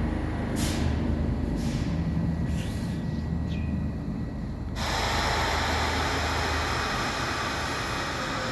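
Rapid-transit train in the station: a low rumble with a few short hisses, then about five seconds in a sudden, loud, steady rush of noise sets in and holds.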